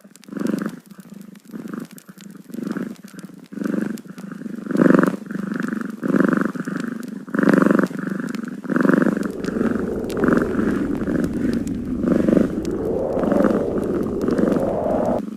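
Domestic cat purring in a series of uneven pulses, about two a second, that run together more steadily in the second half.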